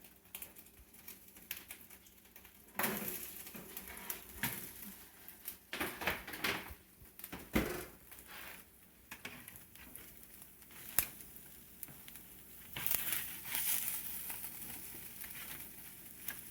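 Hominy kernels roasting on a metal cookie sheet being stirred and turned, with irregular scraping, clicks and rattles of the kernels and the pan.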